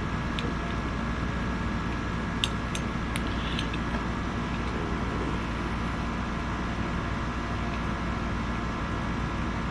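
Steady mechanical hum, like a room fan or air conditioner, with a few faint light clicks a few seconds in.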